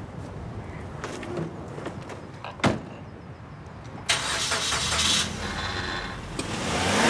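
A single sharp knock, then about four seconds in a car engine starts and keeps running.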